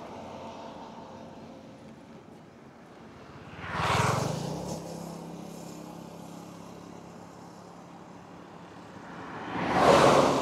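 Road traffic: two vehicles pass close by, each swelling up and fading away, about six seconds apart, with a steady low engine hum in between.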